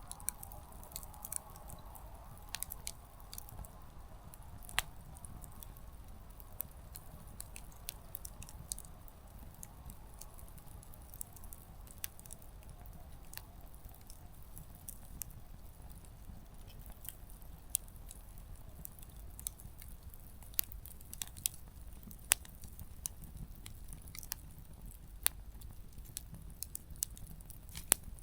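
Small wood campfire crackling, with irregular sharp pops of burning firewood, a few much louder than the rest, over a low steady rumble. A soft hiss fades out over the first several seconds.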